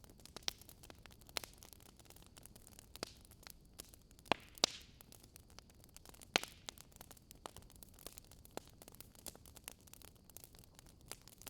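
Wood fire crackling in a fireplace: irregular sharp pops and snaps over a faint steady hiss, with a few louder pops about four and six seconds in.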